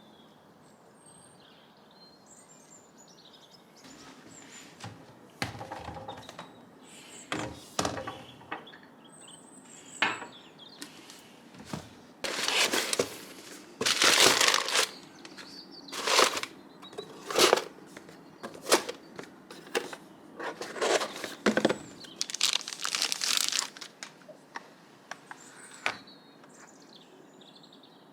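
Irregular bursts of rustling and crinkling, louder and closer together in the middle stretch. Faint bird chirps come before and after.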